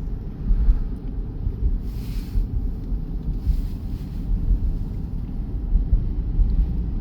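Steady low rumble of a car driving, road and tyre noise heard from inside the cabin, with two brief hissing swells about two and three and a half seconds in.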